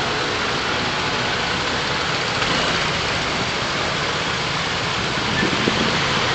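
Steady hiss of rain mixed with a car's engine and road noise, picked up by a dashcam.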